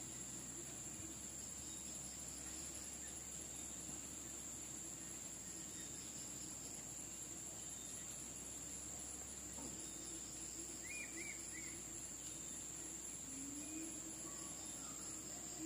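Insects, such as crickets, giving a faint, steady high-pitched drone, with a few short bird chirps about two-thirds of the way through.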